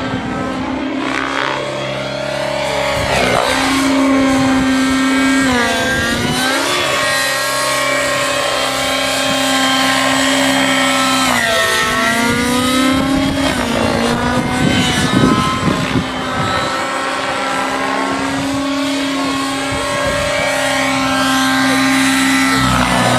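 Nitro-powered Synergy N9 RC helicopter in flight: its glow engine and rotor run steadily while the pitch swoops up and down several times as it manoeuvres and passes by.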